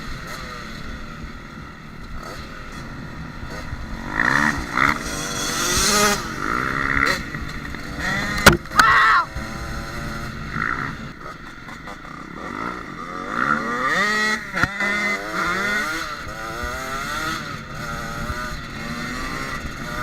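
Yamaha dirt bike engine revving up and down, its pitch rising and falling again and again with the throttle. A sharp knock comes about eight and a half seconds in.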